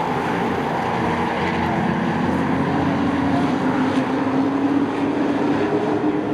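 Race trucks' engines running at speed around a short oval track, a continuous engine drone whose pitch rises a little about halfway through and then holds.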